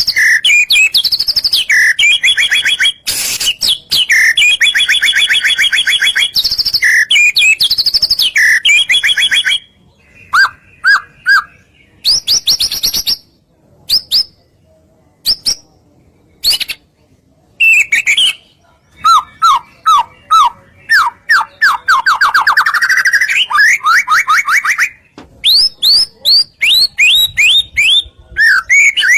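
White-rumped shama (murai batu) singing a loud, varied song: runs of rapid repeated notes, fast trills and quick falling whistles. The phrases thin out into scattered notes with short gaps midway, then pick up into fast runs again.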